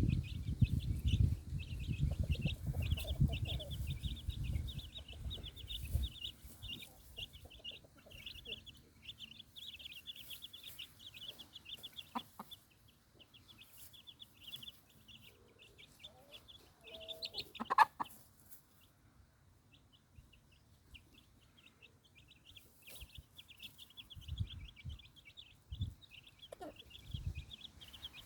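Young chicks peeping continuously, a rapid stream of short, high cheeps. A low rumble sits under the first six seconds, and there is a single sharp knock about 18 seconds in.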